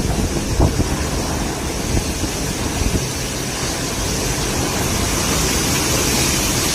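Steady noise of heavy storm rain and wind, with a few short low thumps in the first three seconds.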